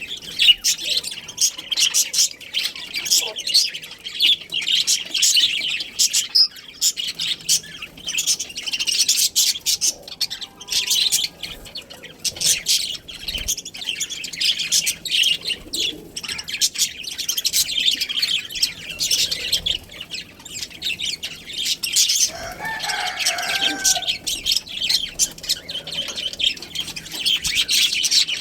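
A flock of budgerigars chattering and chirping continuously in rapid, high twittering calls. A lower, harsher call stands out for a couple of seconds about 22 seconds in.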